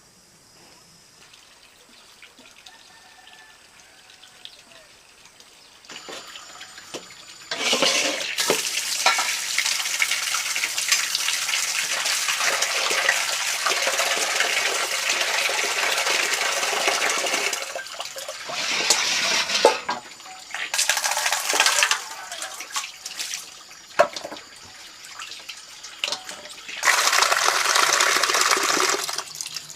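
Water running in several spells: a long one of about ten seconds, then shorter ones of a second or two, after a quiet start.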